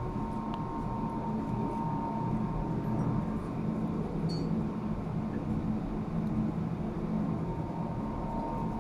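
Steady machinery drone with a constant low hum and a faint high whine, with a couple of faint clicks.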